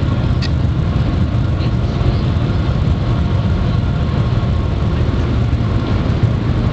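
Steady low rumble inside the cabin of the Shanghai Maglev train running at high speed, with faint steady tones above it.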